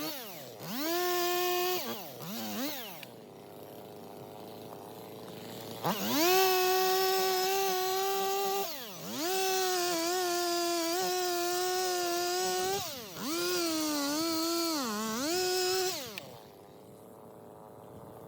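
Stihl MS 250 two-stroke chainsaw revved up again and again, dropping back to idle between revs. In the longer revs the pitch wobbles and sags, as a saw does when the chain bites into wood.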